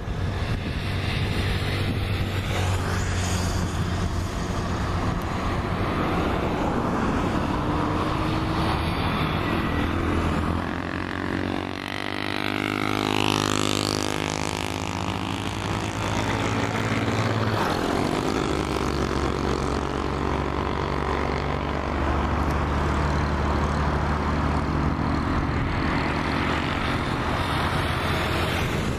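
Jet engines of a Boeing 737 MAX 8 running loudly and steadily with a low hum. About halfway through, the hum drops away for several seconds while tones sweep up and down.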